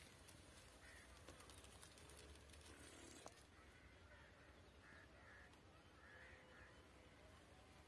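Near silence: faint, short bird calls repeating from about halfway through, over a faint low rumble.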